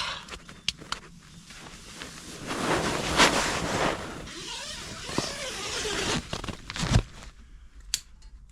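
Rustling and crinkling of sleeping bag, air mattress and clothing as a person climbs out of a camp bed, with small clicks and creaks, and a single thump about seven seconds in.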